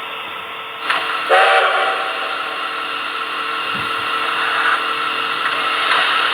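Onboard sound system of a Tenshodo Quantum HO-scale JNR C62 steam locomotive model, played through the model's small speaker: a short steam whistle blast about a second in over a steady running noise.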